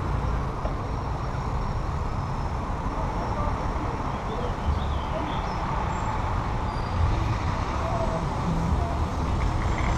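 Steady wind and road noise from a helmet-mounted camera on a moving bicycle, with a low, uneven buffeting of wind on the microphone and traffic noise. No single event stands out.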